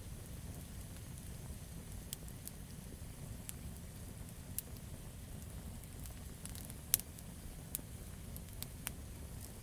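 Campfire wood crackling: scattered sharp pops at irregular intervals over a steady low rumble of the burning fire, with one louder pop about seven seconds in.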